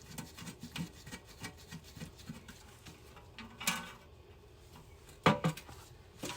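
Light clicking and rubbing of tools and parts being handled during a transmission pan job, with a louder knock partway through and a sharper, louder knock about five seconds in.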